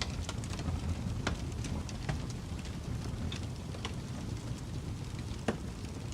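Wood fire burning in a fireplace: a steady low rumble of flames with irregular crackles and pops, the sharpest pop about five and a half seconds in.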